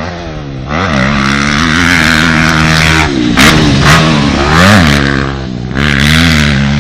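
Motocross bike engine revving hard close by, its pitch rising and falling over and over as the throttle is opened and backed off, getting much louder about a second in. There is a brief dip near the middle and two short cracks.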